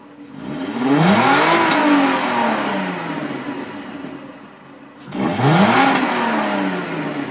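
Volkswagen Jetta wagon's VR6 engine through its stock exhaust, revved twice: each time the pitch rises quickly and then falls slowly back toward idle.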